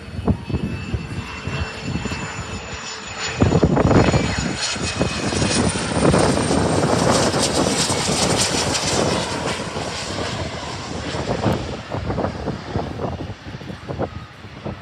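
Landing airliner passing close, its engines growing sharply louder about three seconds in, staying loud for several seconds, then fading, with a faint high whine heard early.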